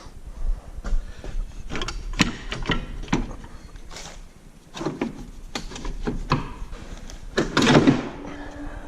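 A run of sharp knocks and clicks from parts being handled on a tractor under its open bonnet, with a louder, longer clatter about three quarters of the way in.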